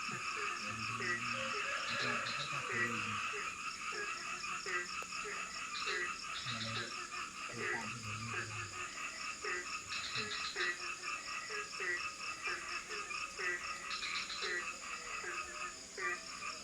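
A chorus of tropical forest frogs calling, with short croaks repeating about twice a second over a steady, dense background of higher-pitched frog and insect calls.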